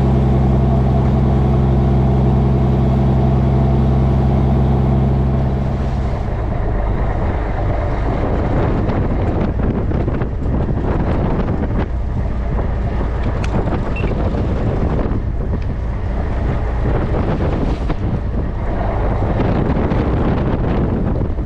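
Fishing boat's engine running at a steady speed, its even hum fading about six seconds in to leave a rough rush of wind buffeting the microphone.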